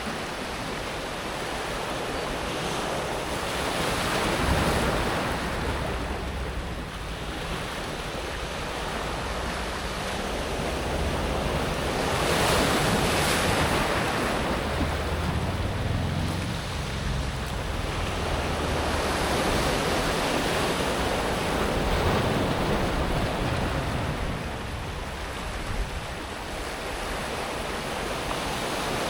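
Small waves breaking and washing over a pebble beach, swelling and receding every few seconds as the water rolls the smooth pebbles, with some wind on the microphone.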